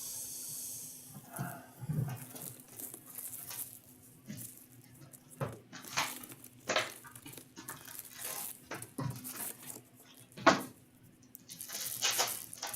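Wrapping on a sealed hockey card box and its packs being opened by hand: irregular crinkling and tearing with a few sharp clicks.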